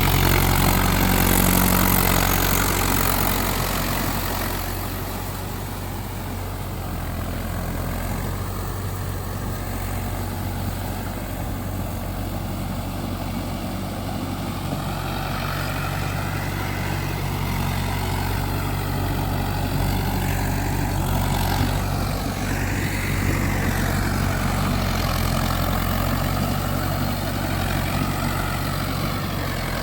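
Mahindra 4x4 tractor's diesel engine running steadily, a little louder for the first few seconds and easing off at about five seconds in.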